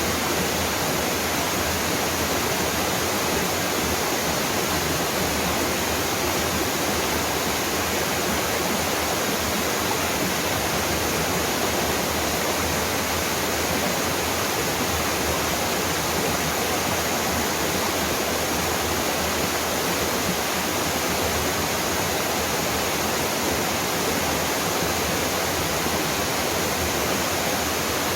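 A mountain waterfall pouring, a steady, unbroken rush of falling water.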